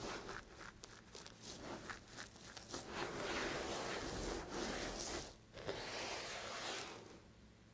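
Knife cutting through dry soap: a quick run of crunchy crackles, then longer scraping strokes. It stops about seven seconds in.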